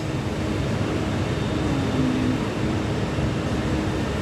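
Steady mechanical drone from nearby machinery, with a constant low hum running under it.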